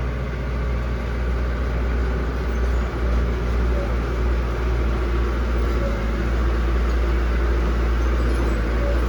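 Heavy diesel machinery running steadily with a deep, continuous engine rumble that gets a little louder about two seconds in.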